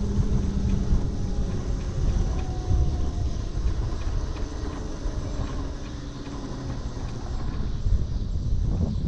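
Wind buffeting the microphone on a moving electric moped, with a faint motor whine that falls slowly in pitch over the first few seconds as it slows.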